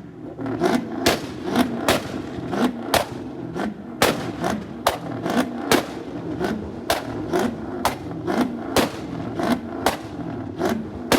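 Car exhaust firing a rapid, fairly even string of sharp bangs, about three a second, over the drone of the engine. The bangs are loud enough to hurt the ears.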